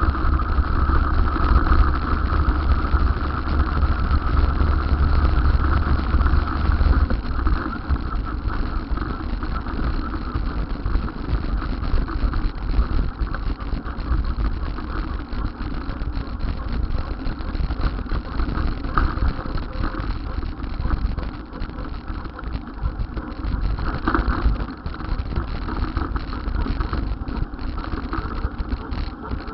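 Steady vehicle and road noise from a ride, with a heavy low rumble that eases about seven seconds in.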